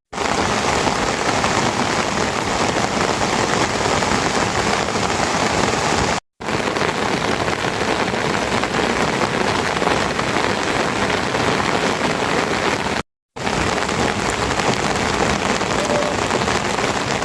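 Heavy rain falling, a loud steady hiss of downpour, cut to silence briefly twice, about six and thirteen seconds in.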